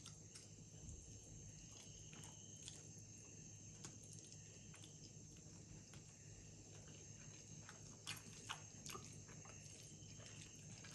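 Near silence with faint eating sounds: a person chewing a mouthful of noodles, with scattered small mouth clicks and two slightly louder ones about eight seconds in, over a low steady hum.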